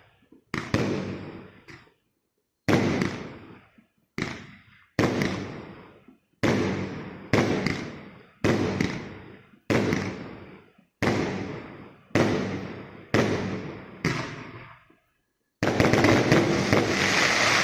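Consumer fireworks battery (the 'Tankisty' PKU891 cake) firing its shots about one a second, each a sharp report with a fading crackle after it. Near the end it breaks into a dense, unbroken volley of many shots at once.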